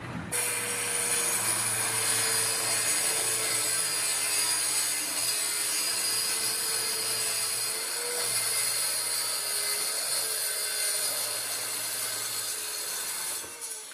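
Electric power tool running steadily on wood, a steady motor whine over a dense hiss; it starts abruptly at the outset and cuts out briefly near the end.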